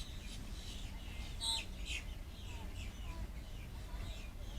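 Birds chirping and calling in a string of short, quick notes, with one loud, sharp call about a second and a half in, over a steady low background rumble.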